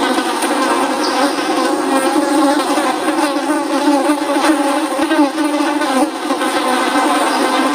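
Flies buzzing, many at once: a loud, steady buzz made of many overlapping pitches that waver up and down.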